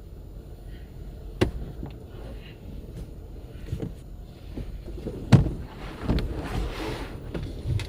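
A handful of sharp knocks and clunks of things being handled, the loudest about five seconds in, with a short rustle near seven seconds.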